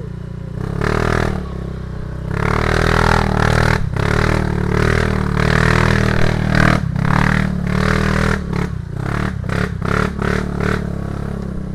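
Motorcycle engine pulling under load over a rough dirt track, with the bike clattering and scraping over the bumps. The engine gets louder about a second in.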